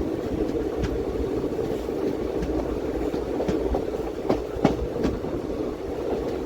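Passenger train running on rails, heard from inside a coach: a steady rumble with scattered wheel clicks over the rail joints, and two sharper clacks a little past the middle.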